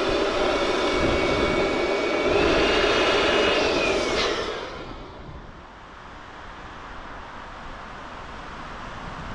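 An aircraft engine passing overhead, its whine holding steady, then sliding down in pitch about four seconds in as it fades away, leaving wind noise.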